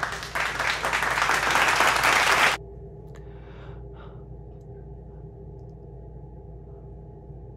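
A burst of applause lasting about two and a half seconds, cutting off suddenly, then only a steady low hum.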